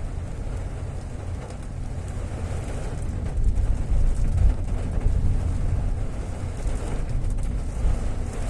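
Fairly heavy rain falling, an even hiss under a loud low rumble that swells about three seconds in and stays.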